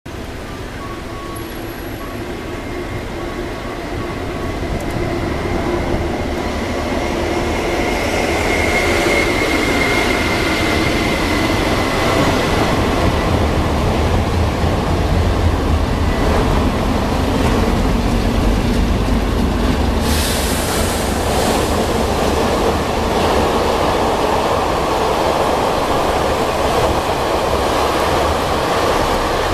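Long freight train of boxcars hauled by an HXD2B electric locomotive running past at speed: a steady rumble of wheels on rail that builds over the first several seconds and then holds. A thin high whine rises and fades around ten seconds in.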